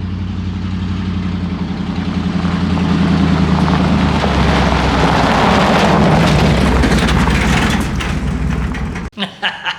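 A motor vehicle's engine running, growing louder and rougher through the middle as if revving, then cutting off suddenly near the end.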